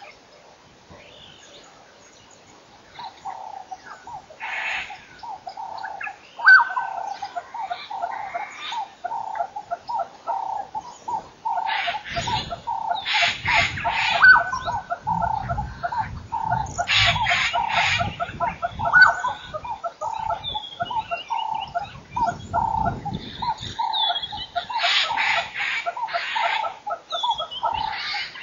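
A flock of birds calling: a rapid, continuous chatter of repeated notes that starts a few seconds in, then grows louder about halfway through as harsh, cackling calls and short rising notes pile on top.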